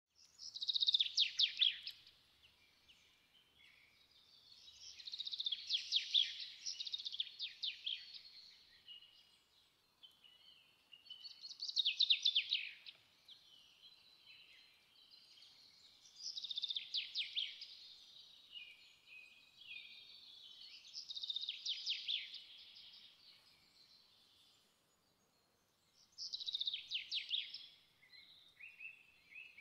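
A songbird singing: about six high-pitched, rapidly trilled phrases, each a second or two long, repeated every few seconds with short pauses between.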